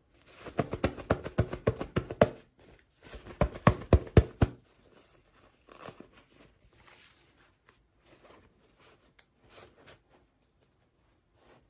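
Plastic packaging being torn open and crinkled by hand: two loud bursts of rapid crackling in the first half, then softer scattered rustling and small clicks.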